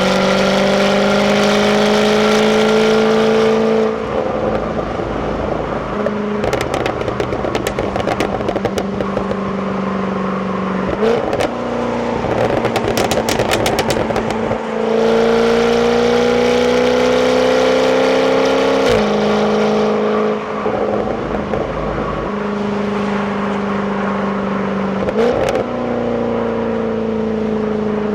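Jaguar F-Type 5.0 supercharged V8 on its stock exhaust, pulling hard twice with the engine note rising in pitch and dropping sharply at an upshift. Between pulls, off throttle, the exhaust crackles and pops in rapid strings.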